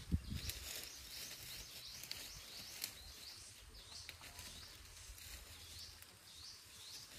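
Outdoor ambience with a bird giving a quick series of short high chirps, about two or three a second, fading in the second half, over a low rumble. A soft bump comes right at the start.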